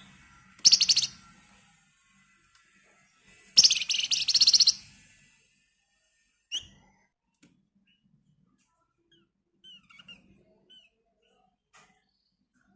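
Flamboyan (wergan Jawa) songbird giving two loud, rapid, buzzy rattling trills, a short one about a second in and a longer one of about a second near four seconds in, followed by a few faint short chirps.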